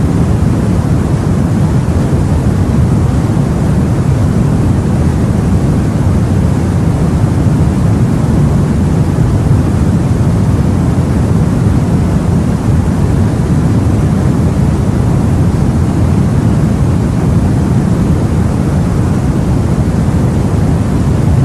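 Steady, deep rumbling wash of the open sea and wind, with no single wave breaks standing out.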